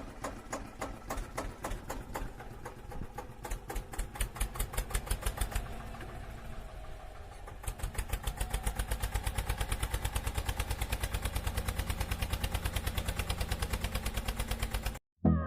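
An engine running with a regular chugging beat that picks up pace and evens out about halfway through.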